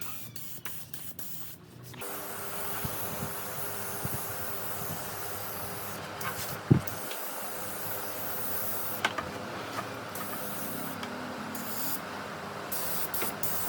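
Compressed air hissing steadily from an air tool, starting about two seconds in, with a faint steady hum under it. A few light knocks of wood or tools, one sharper knock about seven seconds in.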